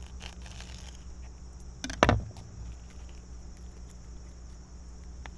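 Kitchen handling noises: a few faint clicks and one sharp knock about two seconds in, over a steady low hum.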